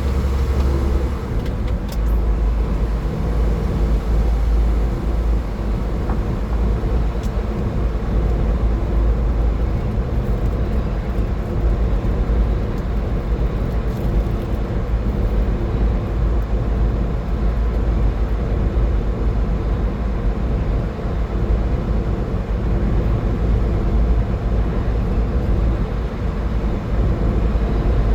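Car driving at highway speed: a steady deep rumble of road and tyre noise with a faint engine hum.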